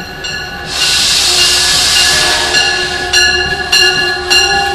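Diesel locomotive's bell ringing steadily, about one stroke every 0.6 s, as a train stands at the station. About a second in, a burst of air hiss from the train lasts about two seconds, over a steady engine hum.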